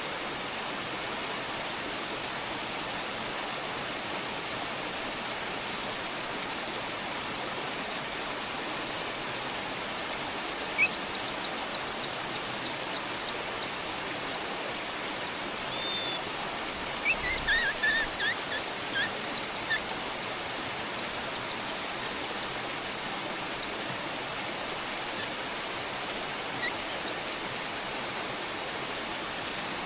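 A steady rushing hiss, like running water, with bursts of rapid high-pitched bird chirps through the middle, loudest a little past halfway, and a few more chirps near the end.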